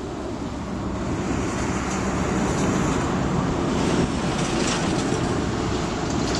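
Wind blowing hard across the microphone: a steady low rumble with hiss, growing a little stronger about a second in.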